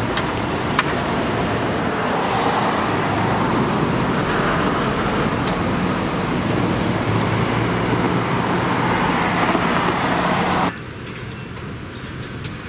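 Road traffic noise with a vehicle engine running. It cuts off suddenly about two seconds before the end, leaving a quieter hiss.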